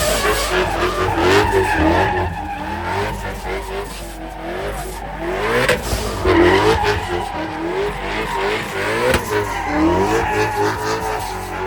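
A car engine revving up and down again and again, each rev a short rising sweep, with tyres squealing and skidding as a car is driven sideways or spun on the spot.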